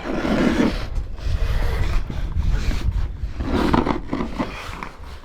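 Rough scraping and rubbing of a hiker and his gear against rock while he squeezes through a narrow slot canyon, over a heavy low rumble on the microphone, with two breathy swells about a third of a second and nearly four seconds in.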